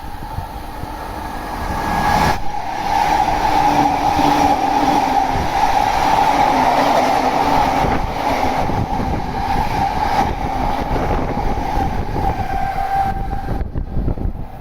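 Electric passenger train passing through a station at speed without stopping. The wheel and rail noise swells about two seconds in, stays loud and steady for about ten seconds, then drops off sharply near the end.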